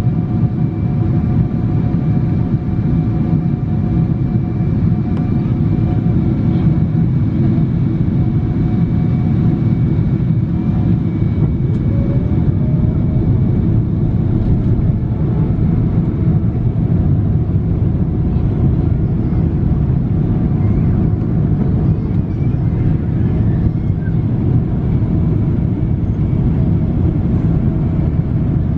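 Steady cabin noise of a Boeing 777-300 airliner heard from inside the cabin: a deep, even rumble of engines and airflow with a few faint steady whining tones over it.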